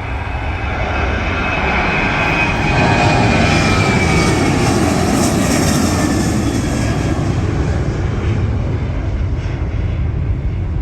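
Jet airliner passing close by, its engine roar building to a peak a few seconds in and then slowly easing, with a high engine whine that falls in pitch as it goes past.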